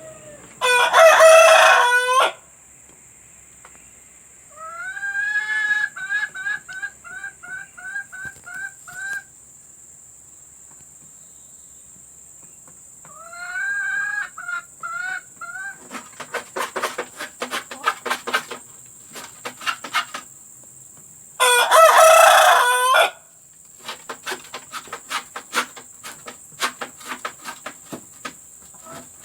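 Domestic chickens: a rooster crows twice, once near the start and again about twenty seconds later. In between, hens give rhythmic cackles, each a rising note followed by a run of evenly repeated clucks, the call hens make around laying. There are also stretches of quick, irregular clucking.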